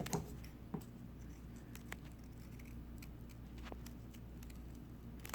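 Faint handling of construction paper: a few scattered light taps and rustles over a low steady hum.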